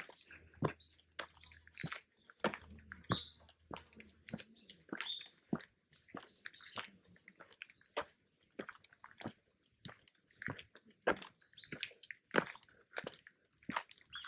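Footsteps on a forest trail, about two steps a second, with small birds chirping.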